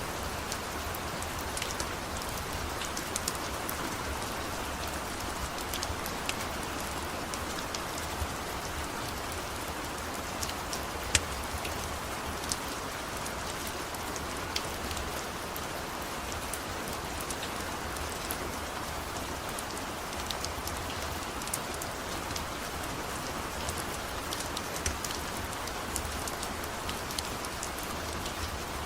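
Steady rain falling, with scattered sharp crackles from a wood fire every second or few seconds.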